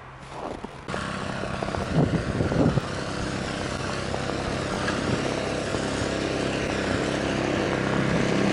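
A motor vehicle's engine running steadily under a broad rushing noise, growing slowly louder. A few knocks come about two seconds in.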